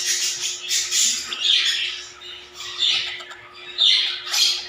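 Young African lovebirds giving harsh, high-pitched squawks, about five short calls spaced irregularly.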